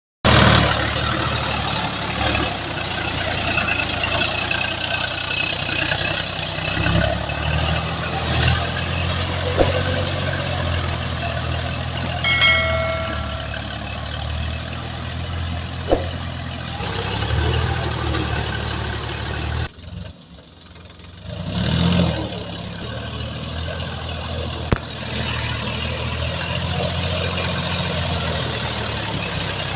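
Tractor diesel engines running steadily. A short pitched tone sounds near the middle, and the engine sound drops away briefly about two-thirds of the way through before returning.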